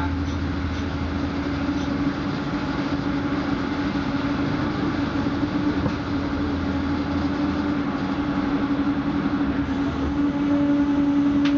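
Moving passenger train heard from inside the carriage: steady rail running noise with a constant hum, growing a little louder near the end.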